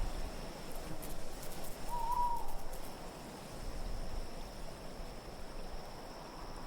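Steady wind with one owl hoot, a single short wavering call, about two seconds in. A thin steady high whistle runs under it, and a scatter of faint high ticks comes in the first few seconds.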